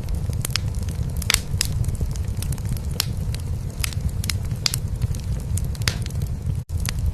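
Wood fire crackling in a fireplace, with irregular sharp pops, over a steady low purring of a cat. The sound cuts out for an instant near the end.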